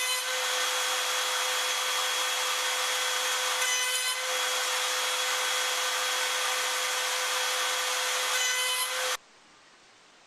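A power tool working wood: a steady motor hum under a loud, even rasping that cuts off suddenly about nine seconds in.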